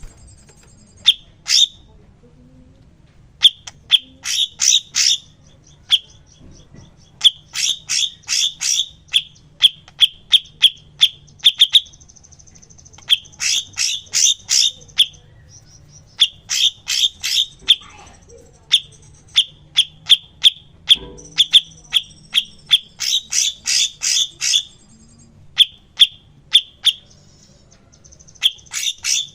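Cucak cungkok bird song: bursts of loud, sharp, rapid-fire chipping notes, several strokes in quick succession per burst, repeated every second or two. A thin, high trill sounds between some of the bursts.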